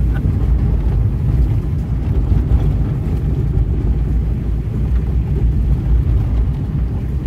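Small Hyundai car driving along a rough track, a steady low rumble of engine and tyres heard from inside the cabin.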